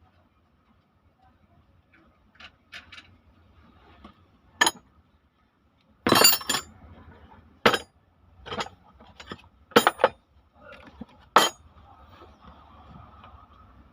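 Metal engine parts and hand tools clinking and knocking against each other during engine disassembly: a string of irregular sharp clinks, the loudest a quick cluster about six seconds in.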